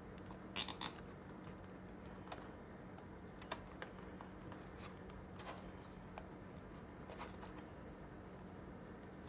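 Faint handling of a nylon zip tie and plastic parts: a quick run of sharp clicks about half a second in, then scattered light ticks, over a low steady hum.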